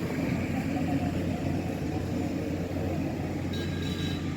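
Motor vehicle running: a steady low engine hum with road noise.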